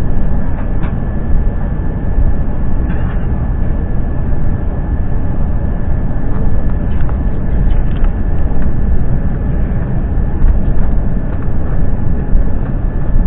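Steady loud cabin noise of an Airbus A350 rolling on the ground: deep rumble from its Rolls-Royce Trent XWB engines and the wheels, with a thin steady whine and scattered small rattles and clicks.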